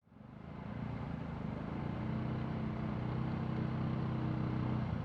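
Off-road vehicle engine running, rising in level over the first couple of seconds and then holding a steady hum.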